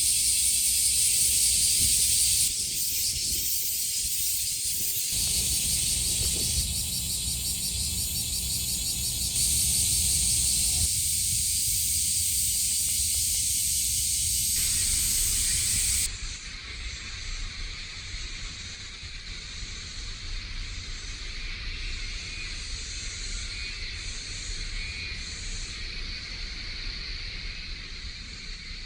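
A chorus of cicadas shrilling: a dense, high-pitched buzz with a faster pulsing layer on top. It changes abruptly several times and becomes quieter about 16 seconds in, with a low rumble underneath throughout.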